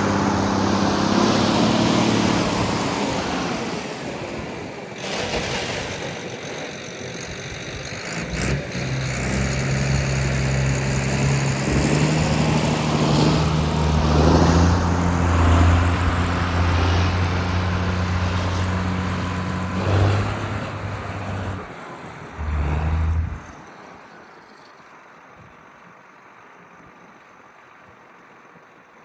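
John Deere 8450 four-wheel-drive tractor's six-cylinder turbo diesel engine running, its pitch shifting a few times as engine speed changes. The engine sound cuts off sharply near the end, leaving only a faint hiss.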